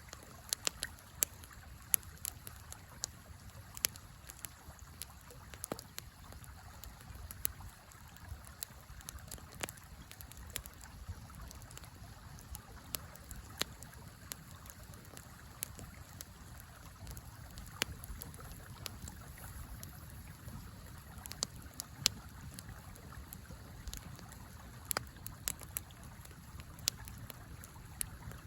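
Campfire crackling, with irregular sharp pops and snaps over the steady rush of a river.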